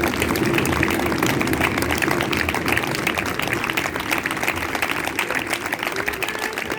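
Audience applauding at the end of a concert, dense clapping with a few voices over it, slowly dying down.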